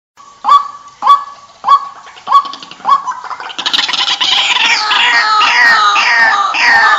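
White-breasted waterhen calling: five sharp rising calls about half a second apart, then from about three and a half seconds a loud, continuous run of rapid falling notes.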